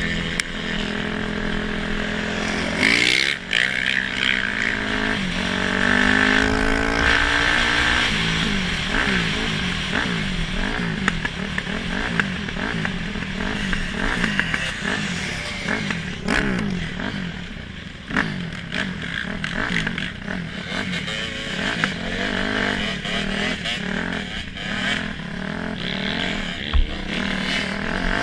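Dirt bike engines revving up and down, the pitch rising and dropping again and again about once a second through most of the stretch, with a longer climb in the first few seconds.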